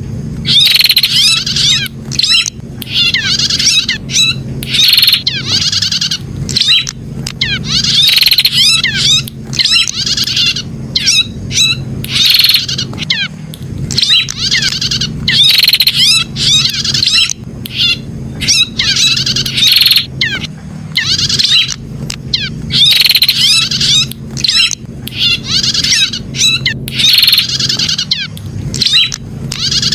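Prenjak (prinia) chirping in rapid, repeated bursts, each about a second long with short gaps between, over a steady low hum. It is the 'pijat' call that bird keepers play to stir their caged birds into song.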